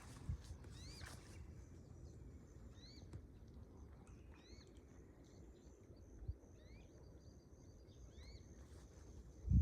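A bird calling outdoors, repeating short rising chirps about every second or so, over a faint low rumble.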